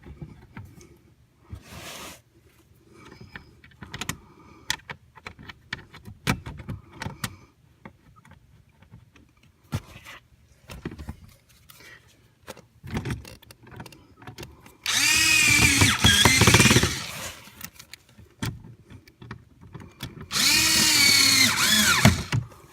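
Power screwdriver driving the two Phillips screws into a plastic kick panel: two runs of about two seconds each, the motor's pitch rising and falling as it works, after a stretch of scattered clicks and handling of trim.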